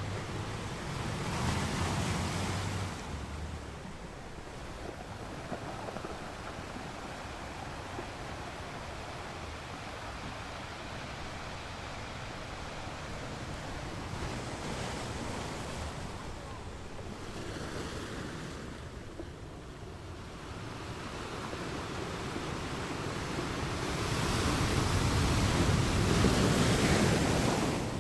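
Sea waves washing ashore in a steady rush of surf, with a swell about two seconds in and a louder wave breaking near the end. Wind rumbles on the microphone at the start.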